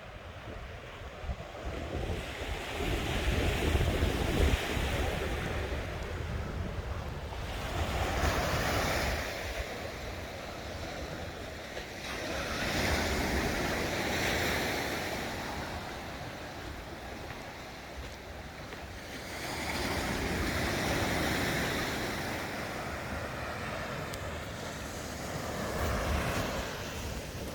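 Sea waves breaking and washing up a beach, the surf swelling and falling back about every six or seven seconds, with wind buffeting the microphone.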